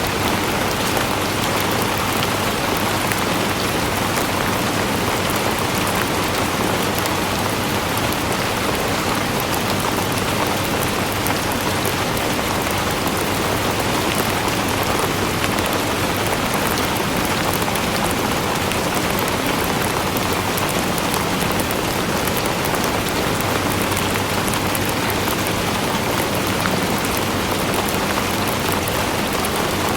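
Steady rain falling: an even, unbroken hiss with the fine patter of many drops, holding the same level throughout.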